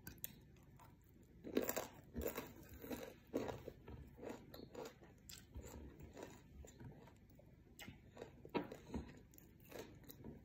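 Close-up chewing of crisp fried anchovies, a run of short crunches with a few sharper ones about a second and a half in, around three and a half seconds, and again near the end.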